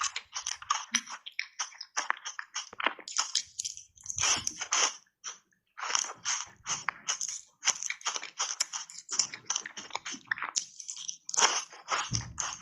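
Someone biting and chewing crunchy button ice coated in matcha powder: rapid, irregular crunches, breaking off briefly about five seconds in before resuming.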